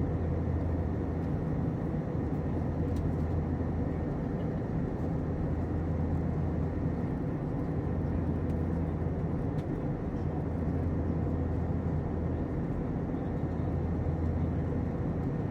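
Steady cabin noise inside an Airbus A321 in flight: an even rush of engines and airflow with a deep hum and a few faint steady tones, unchanging throughout.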